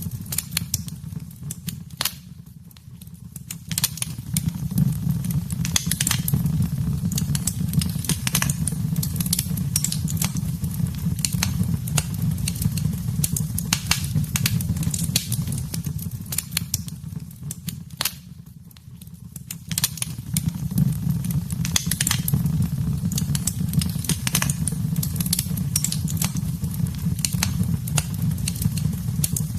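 Wood fire in a fireplace crackling and popping with a steady low rumble of flames underneath. It dies down briefly twice.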